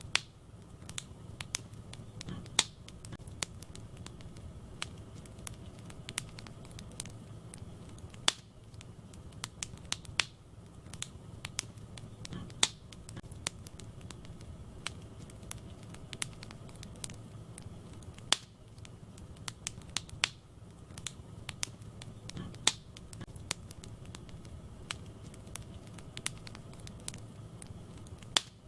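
Wood fire burning in a fireplace: irregular sharp crackles and pops over a low steady rumble of the flames, with a louder pop every few seconds.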